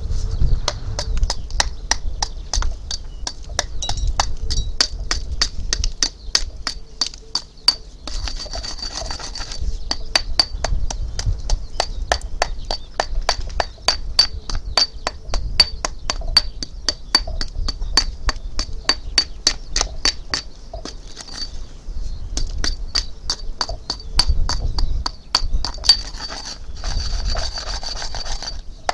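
Rhythmic scraping or rasping strokes from a hand tool working a hard surface, about three sharp strokes a second, kept up steadily throughout, over a low rumble.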